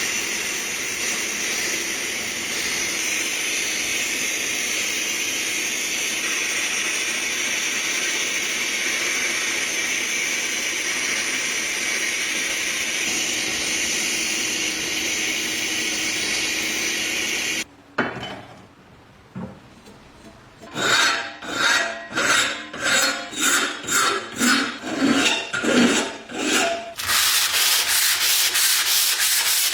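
Sanding: a steady abrasive rubbing that cuts off abruptly about two-thirds of the way in, then a run of back-and-forth strokes at about two a second, then steady sanding again near the end.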